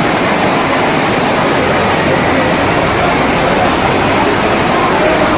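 Amboli waterfall's water falling and splashing: a loud, steady rush.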